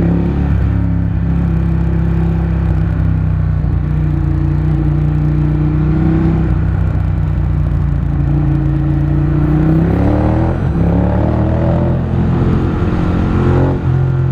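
Motorcycle engine heard from the rider's seat while riding, its pitch rising and dropping several times as it speeds up and changes gear, climbing most steeply about ten seconds in.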